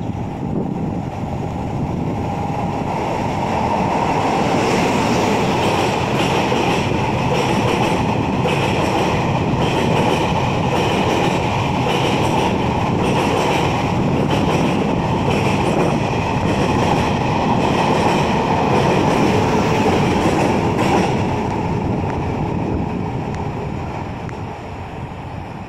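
A train running past on the rails: a steady rumble of wheels with scattered clacks, fading away over the last few seconds.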